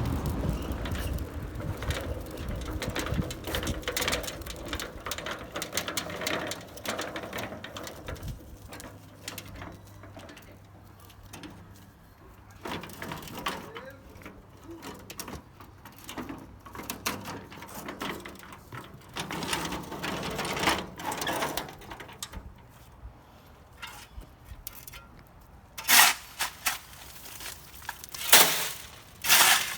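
Rubble and construction debris being shifted and handled: a rattling scrape for the first several seconds, then scattered knocks, and three sharp, loud impacts near the end.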